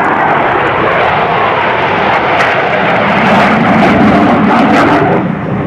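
Jet engines of US Navy Blue Angels F/A-18 Hornets running loud as the jets fly past, dipping slightly about five seconds in.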